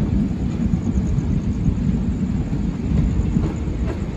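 Jammu Tawi–Barmer Express passenger coach running along the track, a steady heavy rumble of wheels on rail heard from the open doorway, with wind rumbling on the microphone.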